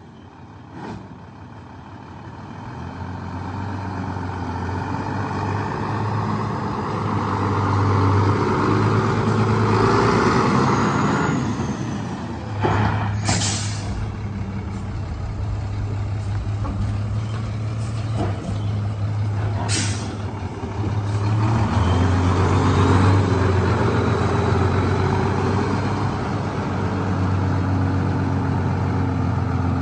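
Sinotruk HOWO 6x4 tractor truck's 371-horsepower diesel engine running, getting louder over the first several seconds and then staying steady. Twice, about halfway through and again about two-thirds of the way through, there is a short sharp hiss of air from the truck's air brakes.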